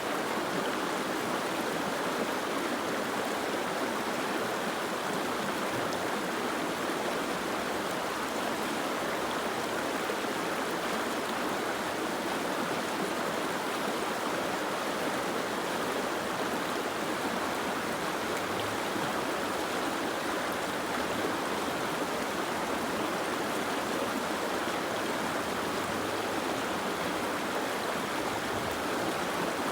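Steady rushing of water, an even hiss with no distinct drops, splashes or other events.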